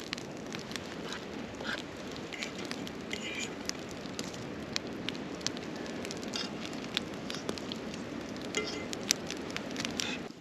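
Campfire crackling: many sharp pops and snaps over a steady low rush of the flames, with a few short high squeaks. It cuts off abruptly near the end.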